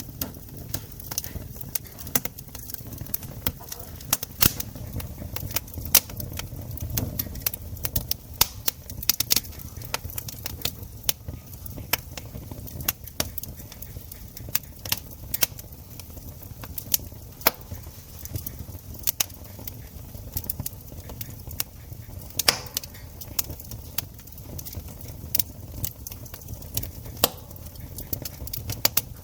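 Wood campfire crackling, with frequent sharp, irregular pops and snaps over a low steady rumble.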